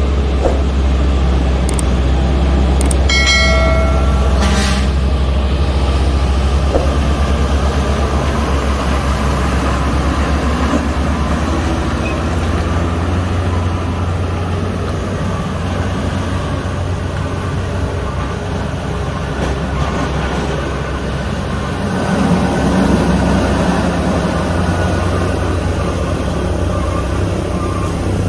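Heavy diesel truck engines running low and steady on a climb, with a vehicle horn sounding once for about a second and a half, a few seconds in.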